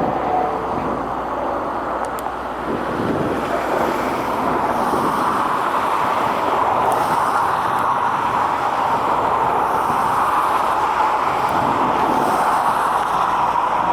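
Steady, loud rushing roar of vehicle noise, growing slightly louder a few seconds in.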